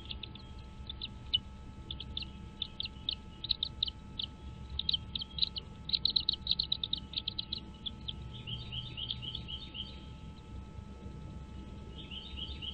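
Bird calling: a rapid run of short high chirps, several a second, for about eight seconds. Then come a couple of brief runs of quicker, down-slurred notes, one about two thirds of the way through and one near the end.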